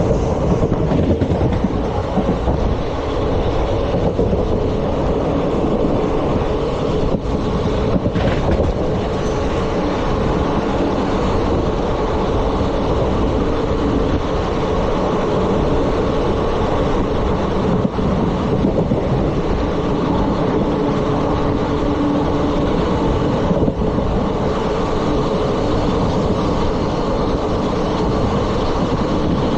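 Indian Railways ICF passenger coaches running along the track at speed: the steady noise of steel wheels rolling on the rails, with a constant hum running through it.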